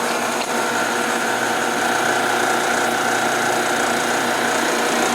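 1976 Westinghouse electric dryer running steadily just after its motor has started, with a constant hum. Its worn bronze motor bushing makes it hard to start, so it got going only after the drum was turned by hand.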